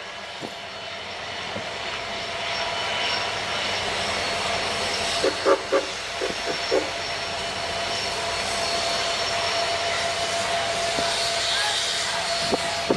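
A train running: a steady rumbling noise that slowly builds, with a thin steady tone over it and a few short pitched blips about halfway through.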